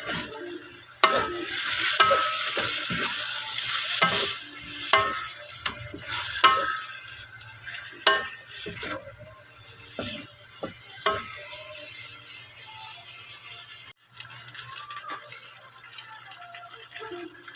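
Food sizzling in a hot frying pan while a metal utensil stirs it, clacking sharply against the pan about once a second. The sizzle is loudest for the first several seconds, then dies down to quieter stirring. The sound breaks off abruptly about fourteen seconds in.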